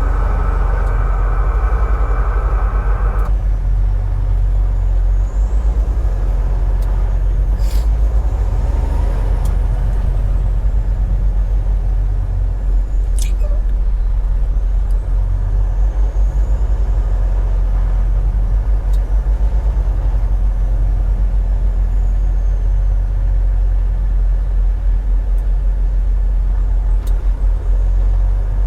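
Steady low rumble of a semi truck's engine and road noise, heard from inside the cab while driving. A higher hiss stops suddenly about three seconds in, and two short clicks come later.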